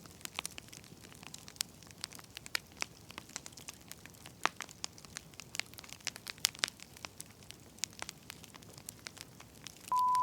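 Wood fire crackling, with irregular sharp pops and snaps over a low hiss. Near the end a single steady electronic beep sounds for under a second, louder than the fire.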